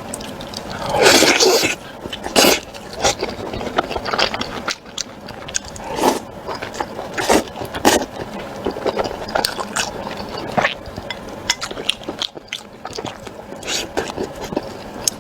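A person eating close to the microphone: repeated bites and chewing, with short sudden crunches and wet mouth sounds, the loudest about a second in.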